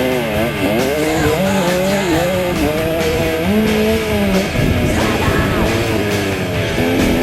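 A KTM 65 two-stroke motocross bike's engine revving up and down as it rides the track, mixed with rock music.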